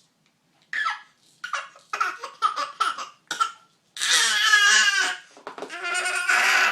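A young child's high-pitched voice: a run of short laughing sounds, then two long wailing cries about four and five and a half seconds in.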